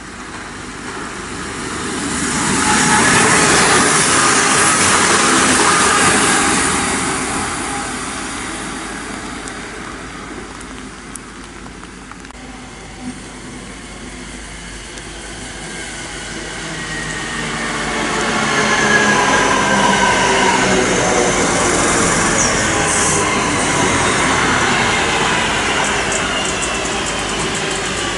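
Electric trains running through a station: a first unit passes in the opening seconds, then a Northern Class 323 electric multiple unit draws in alongside the platform from about 17 seconds, its wheels and traction motors giving a rumble with a whine that falls in pitch.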